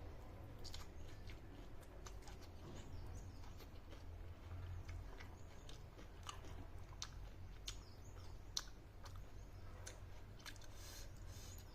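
A person chewing food, with irregular sharp clicks of the food breaking between the teeth and one louder click about eight and a half seconds in.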